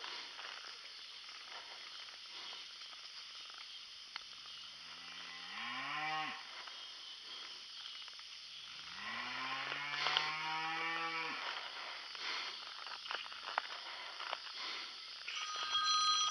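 Cattle mooing: two long moos, each rising in pitch and the second held longer, with another moo starting right at the end.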